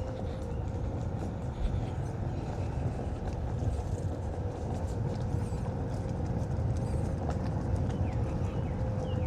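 Onewheel's electric hub motor whining at a nearly steady pitch while riding along a trail, over a continuous low rumble from the tyre and wind. Faint bird chirps come and go above it.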